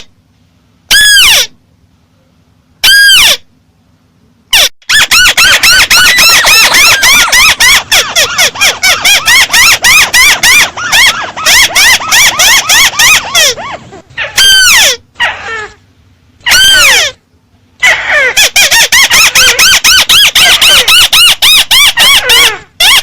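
Amplified bird-call recording of the bird known in Vietnamese as chim mắt xéo: long, fast runs of short high chirps, several a second, broken by short pauses and by a few single long notes that slide steeply down in pitch.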